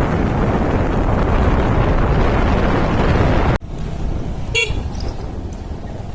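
Loud rushing wind and road noise while riding along, which cuts off abruptly a little past halfway; then quieter road noise with a short vehicle horn beep about four and a half seconds in.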